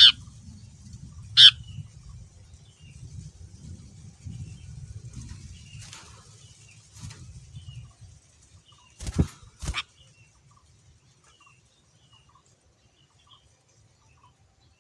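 Sooty-headed bulbul giving two loud, short calls, one at the start and one about a second and a half in, followed by faint scattered chirps. A low rumble runs under the first half, and several sharp knocks come around the middle, the loudest two close together.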